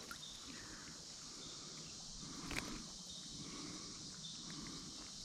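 Quiet outdoor ambience beside a creek: a faint, steady high hiss, with one light click about two and a half seconds in.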